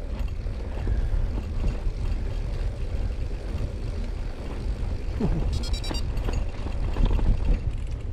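Wind buffeting the microphone and the rumble of a Brompton folding bicycle rolling over the path while riding down a slope, with a brief high-pitched squeal about six seconds in.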